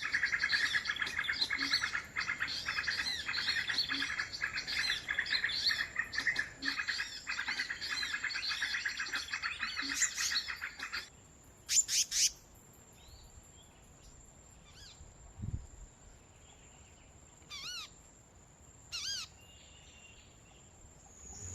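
Small birds chirping and chattering in a dense run of fast calls for about eleven seconds, then only a few separate calls: two loud sweeping notes, and later two short runs of arched chirps. A steady high-pitched whine sounds underneath throughout.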